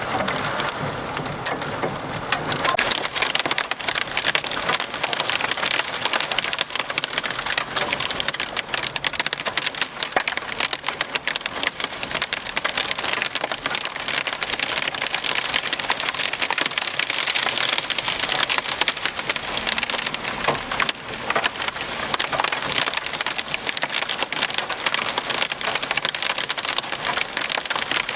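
Heavy rain and hail pelting a vehicle: a dense, steady crackle of countless small impacts.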